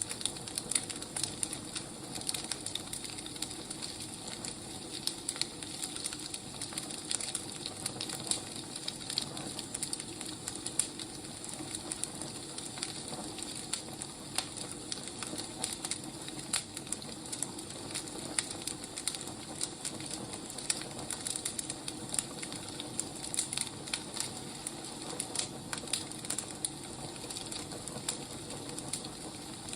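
Firewood burning, with irregular crackles and pops over a steady hiss.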